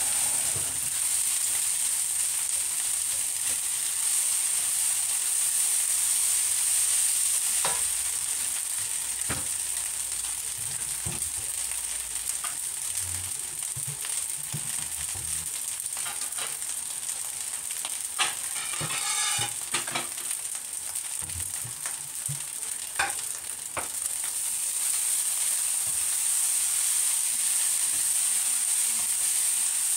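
Fried rice sizzling in a stainless steel wok as it is stirred and tossed with a silicone spatula, with scattered scrapes and taps of the spatula on the pan and a busier run of scraping a little past halfway.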